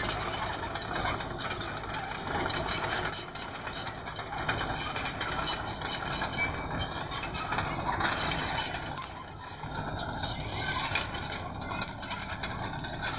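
Bulldozer's diesel engine running under load while it pushes stone, with frequent clanks and crunches throughout.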